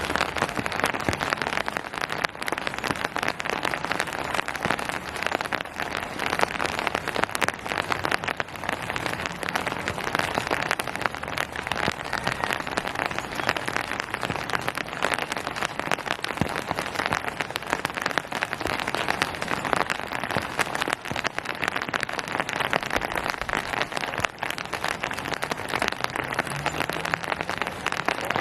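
Steady rain falling, a dense, even patter of drops hitting surfaces.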